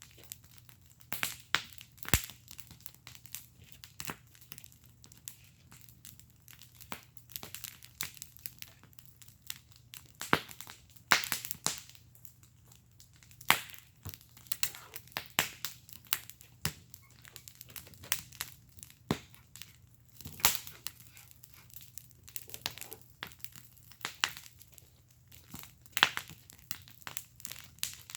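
Wood fire burning in a fire pit, crackling with irregular sharp pops and snaps, some louder than others, over a faint low hum.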